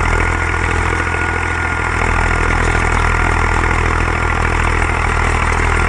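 Zetor tractor's diesel engine running steadily at working speed, with a thin steady high-pitched whine over it.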